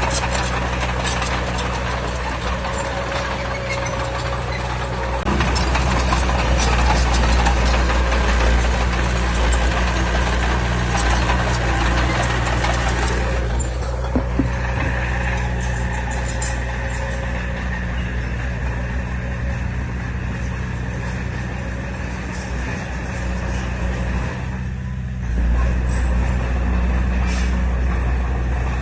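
Heavy diesel earthmoving machinery running under load, a steady low engine drone with rattling clatter over it. The engine note swells about five seconds in, shifts briefly around the middle, and swells again near the end.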